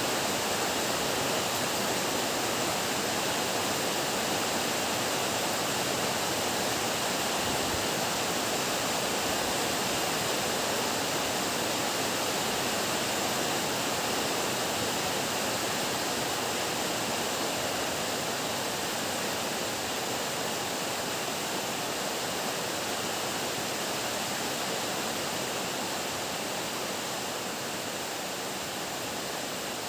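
Heavy downpour rain falling steadily, a dense even hiss that eases off slightly toward the end.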